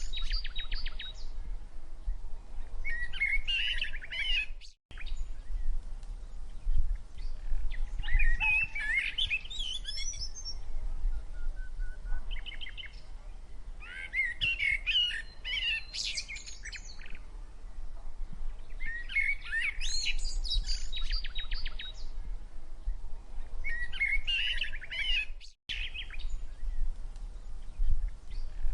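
Gelatik birds chirping and twittering in repeated bursts every few seconds, some as fast clicky trills, over a steady low rumble. The sound cuts out briefly twice.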